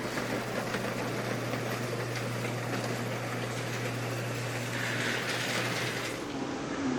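Steady machinery noise with a low, even hum that cuts off about six seconds in.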